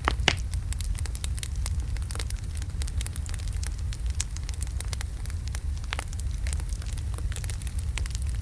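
Burning wood logs crackling in a fireplace: a steady low rumble of the fire under irregular sharp pops and snaps, with a couple of louder pops at the start and another about six seconds in.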